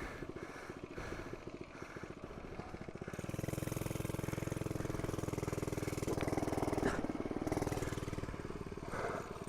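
FRP GMB100 mini bike's 99cc four-stroke engine running. Its note steps up about three seconds in, holds steady for several seconds, then eases back down near the end.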